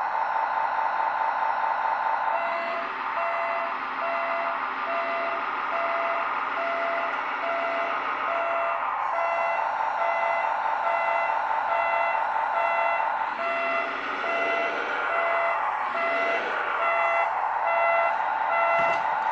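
Reversing alarm beeping repeatedly, about one and a half beeps a second, over an engine sound that rises and falls, from a scale RC model of a CAT 963B track loader. The beep's pitch shifts higher about halfway through.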